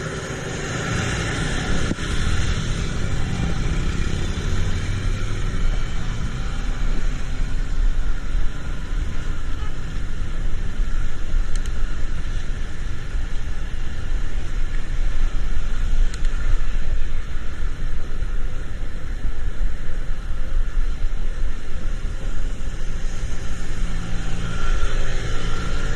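Steady rumble of a car in road traffic, with a constant even hiss over it and no distinct events.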